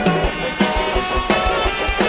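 Live band music with a steady drum beat and sustained keyboard or guitar notes; the cymbals drop out briefly near the start before the full band comes back in with a hit.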